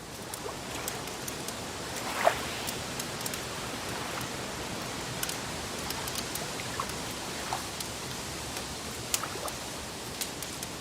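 Crackling fire: a steady hiss with scattered sharp pops and snaps, the loudest about two seconds in.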